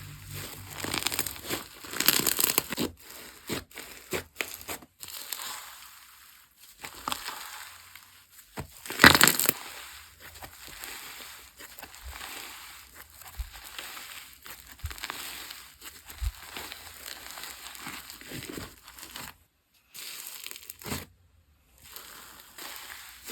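Slime being squished, stretched and pressed by hand, giving irregular crackling, popping and squishing noises, loudest about nine seconds in.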